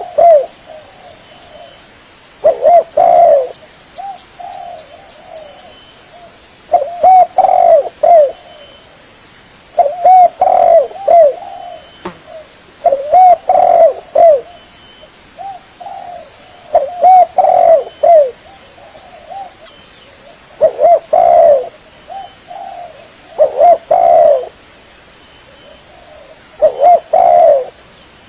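Spotted dove cooing: eight loud phrases of several coos, about one every three and a half seconds, with softer coos in the gaps between them.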